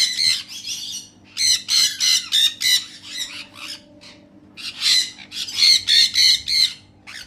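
Crimson-bellied conures squawking in rapid, harsh bursts of calls, in three main spells with short pauses between.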